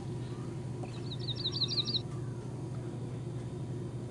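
A small bird chirping: a quick run of about seven high, sliding notes starting about a second in and lasting about a second. A steady low hum runs underneath.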